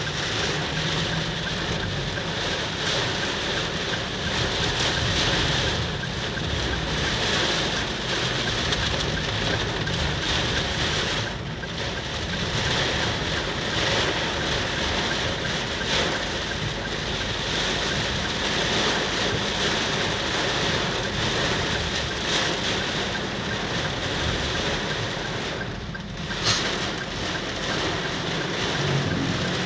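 Heavy tropical rain pouring down in strong wind, a steady rushing hiss of rain on surfaces, with one short sharp knock near the end.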